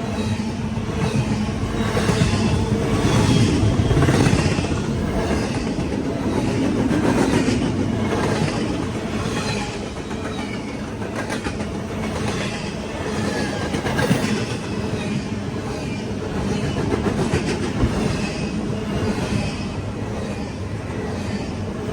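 CSX intermodal freight train rolling past, its cars' wheels clicking steadily over the rail joints under a continuous rumble.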